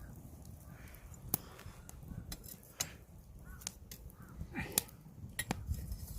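Wood fire crackling under an iron cauldron: irregular sharp pops and snaps over a steady low rumble, with birds calling faintly in the background.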